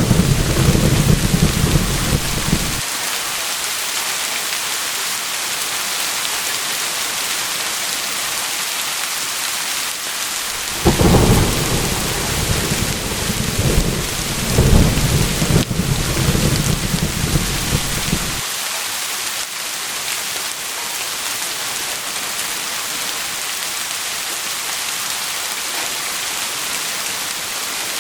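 Steady hiss of heavy rain throughout, with thunder rumbling over it: a rumble that dies away in the first three seconds, then a new thunderclap that starts suddenly about eleven seconds in and rolls for about seven seconds, swelling again midway before fading.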